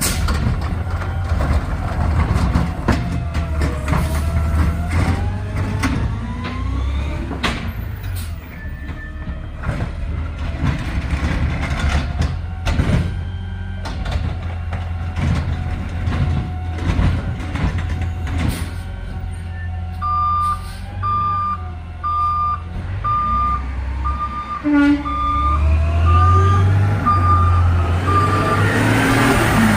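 Garbage truck's diesel engine running, with repeated clanks, rattles and whining pitch glides from its working gear. About two-thirds of the way through, its backup alarm beeps steadily, about one beep every 0.8 seconds for some eight seconds, and the engine revs up near the end.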